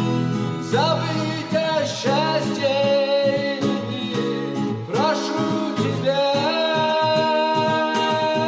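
A man singing to a strummed acoustic guitar, his notes sliding up into long held tones, with no clear words.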